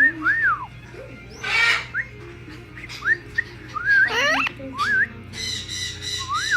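Hawk-headed parrot giving short whistled notes, some arched and some rising, with a harsh call about a second and a half in. Near the end it makes a rapid chattering call.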